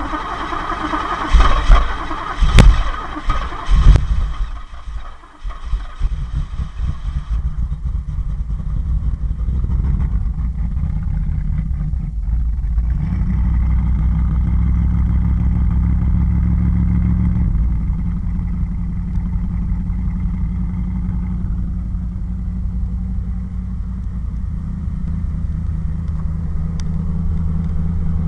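1985 Pontiac Trans Am's 350 small-block Chevrolet V8 with throttle-body injection cranking and catching on a cold start, with three loud pops in the first few seconds. It runs unevenly, picks up to a faster idle, then drops back to a steady idle about two thirds of the way through, through a catless exhaust and MagnaFlow muffler.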